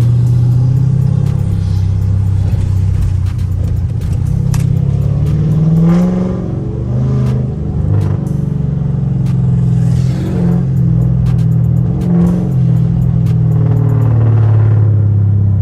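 Dodge Charger R/T's 5.7 Hemi V8 exhaust drone at low speed, a steady deep rumble that swells and eases a little in pitch midway as the throttle changes, with scattered light clicks over it.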